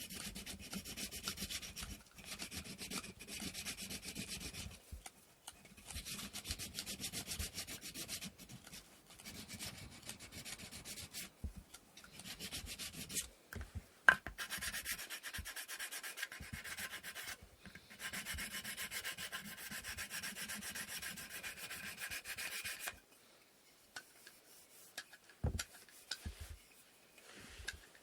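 Wooden inkle loom part being sanded by hand with sandpaper: rapid back-and-forth rasping strokes in runs of a few seconds with short pauses between them. The sanding stops about five seconds before the end, leaving a few light knocks.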